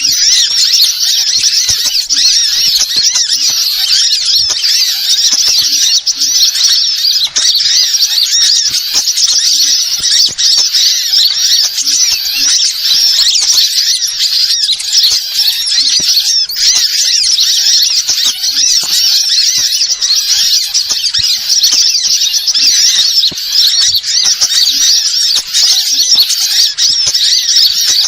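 Bird-lure call recording: a dense, unbroken chatter of high, rapid bird chirps.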